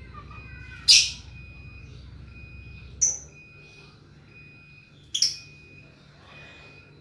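Lovebird giving three short, shrill calls about two seconds apart, the first the loudest. A faint high tone repeats evenly in the background.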